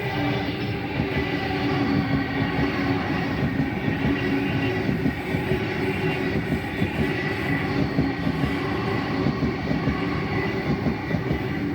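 Sydney Trains Waratah electric passenger train running past at steady speed: a continuous wheel-on-rail rumble with a steady hum from the train.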